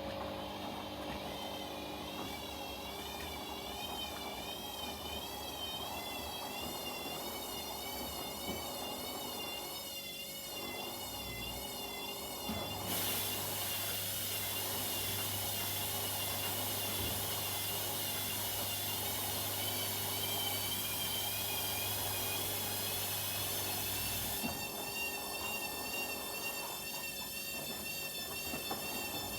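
Washing machines running a wash cycle: a motor whine that wavers up and down in pitch as the drum turns. About halfway through, a steady low hum and a loud hiss start together, run for about eleven seconds, then cut off suddenly.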